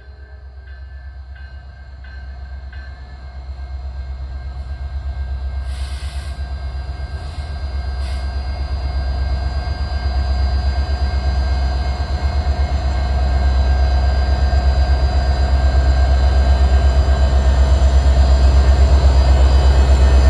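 Alaska Railroad EMD diesel-electric locomotives pulling a passenger train out, their deep engine rumble growing steadily louder as the train gathers way and draws closer. A few short hisses come about six to eight seconds in.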